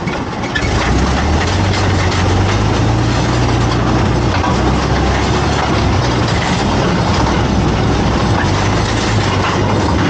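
A rail vehicle's engine running steadily, with the loud, continuous rumble and noise of travel on the railway.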